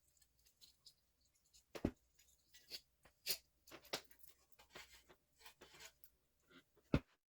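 Irregular light clicks and knocks of hand tools and metal parts being handled, with two sharper knocks about two seconds in and near the end.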